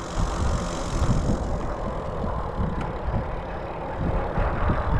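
Vehicle on the move: an uneven low rumble of engine and road noise.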